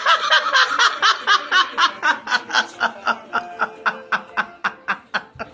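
A man laughing in a long run of quick, even pulses, about four or five a second, growing steadily quieter toward the end.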